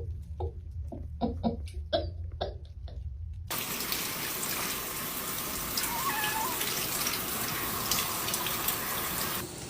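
A rapid series of short cat meows, then a sudden cut, about three and a half seconds in, to a tap running into a bath. A faint meow sounds over the water about halfway through.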